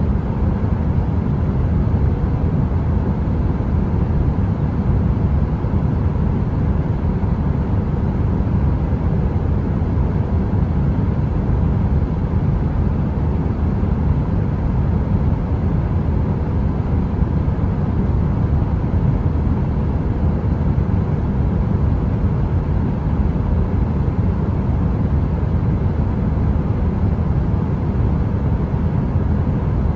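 Heater running with a steady, deep rushing noise and a faint even hum on top, unchanging throughout.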